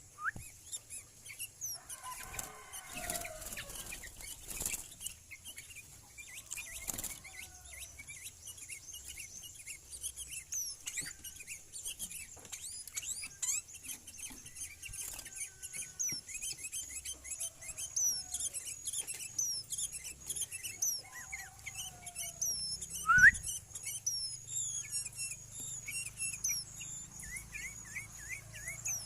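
Sooty-headed bulbul (kutilang) and other birds chirping and calling, with many quick high chirps overlapping throughout and occasional lower whistled notes. A single sharp knock sounds about three quarters of the way through.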